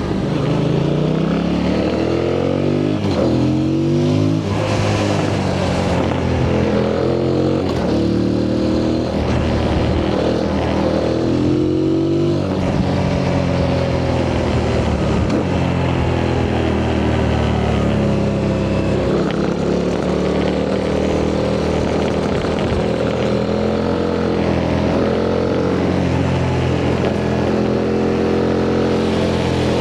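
Yamaha MT-07's 689 cc CP2 parallel-twin engine on its stock exhaust, heard from the rider's seat under hard riding. The engine note climbs in pitch and drops back at each gear change, several times over, with a stretch of falling revs off the throttle midway before it pulls up through the gears again. Wind noise rushes underneath.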